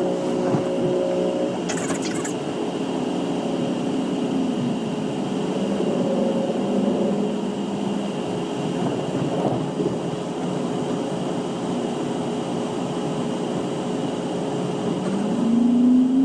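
Inside a GO Transit commuter train running at speed: a steady rumble and rush of wheels on rail under low hums, which rise in pitch near the end. A brief high hiss about two seconds in.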